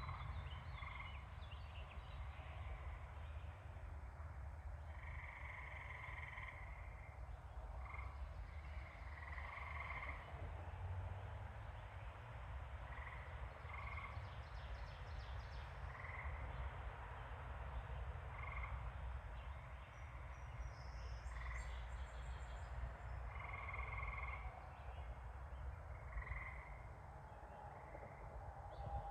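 Frogs calling in a chorus: short calls and occasional longer calls about a second long, repeating every second or two, over a low steady rumble.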